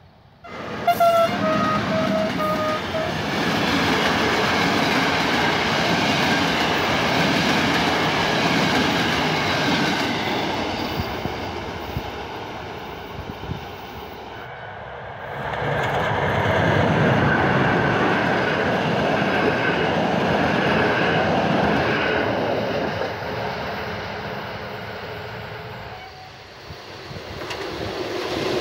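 A train horn sounds once, about a second in, for roughly two seconds with its pitch dipping slightly. Trains then run past on the track, their noise swelling and fading twice, with a train approaching again near the end.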